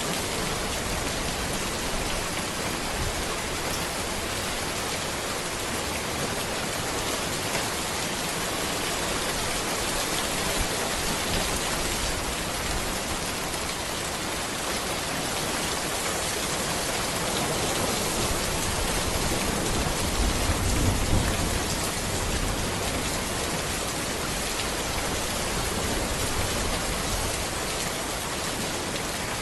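Steady rain falling on a road among trees, an even hiss of drops. About two-thirds of the way through, a brief low rumble swells and fades.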